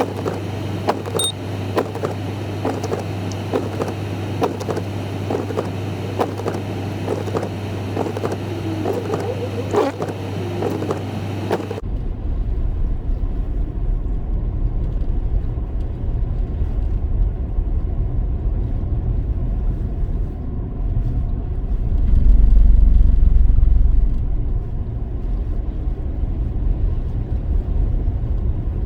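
Car heard from inside: first a steady engine hum with scattered small ticks, then, after a sudden change about twelve seconds in, the low rumble of the car driving, which grows louder for a couple of seconds about ten seconds later.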